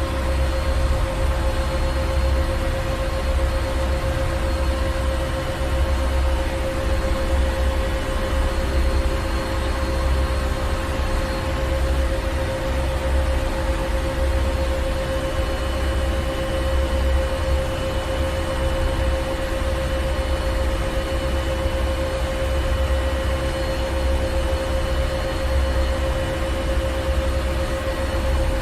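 Ship's engine room: heavy machinery running steadily, a deep pulsing rumble under a constant hum with several steady tones.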